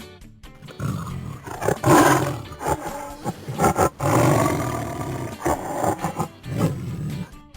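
Tiger roaring and growling in a series of rough calls, the loudest about two and four seconds in.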